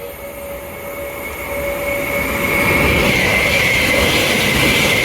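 Electric multiple-unit train drawing near through the station, growing louder over the first three seconds and then holding, with a steady high whine over rail rumble and hiss.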